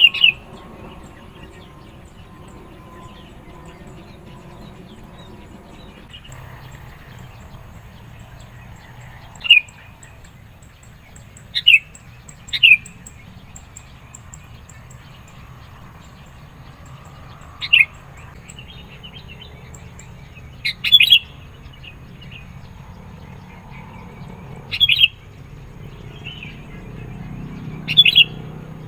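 Sooty-headed bulbul (kutilang) giving short, sharp calls, singly or in quick pairs, every few seconds after a long pause at the start.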